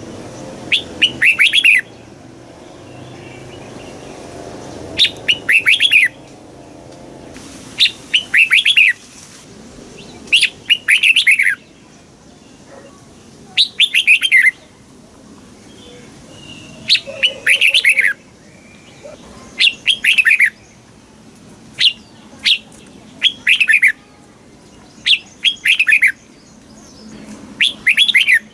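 Red-whiskered bulbul singing: short, quick chirping phrases, each up to about a second long, repeated every two to three seconds, over a faint steady low hum.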